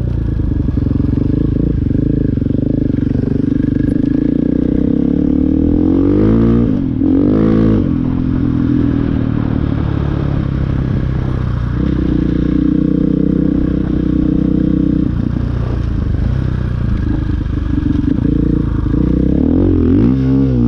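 Dirt bike engine running under way, its pitch rising and falling with the throttle, with quick sweeps up and down about a third of the way in and again near the end.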